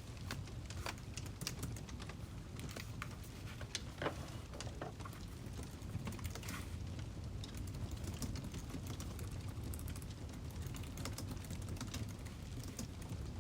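Wood fire crackling: irregular sharp pops and snaps, a few louder ones such as about four seconds in, over a steady low rumble.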